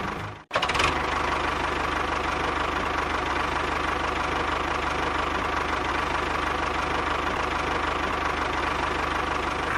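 Steady engine-like running noise from a machine, broken by a sudden short cut about half a second in.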